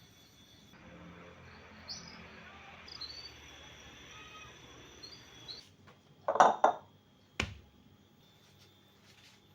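Kitchen work sounds: a steady rushing hiss for about five seconds with a few short high chirps over it, then a loud double clatter of kitchenware and a single sharp knock.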